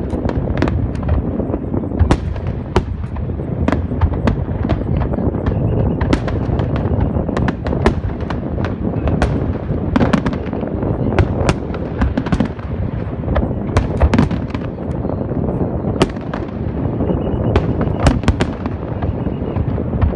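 Fireworks display going off continuously: a steady low rumble of booms with many sharp cracks scattered irregularly throughout.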